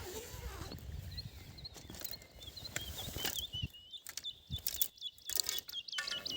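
Small songbirds chirping in repeated short notes, with a quick run of notes near the end, over scattered clicks and crunches of handling or footsteps.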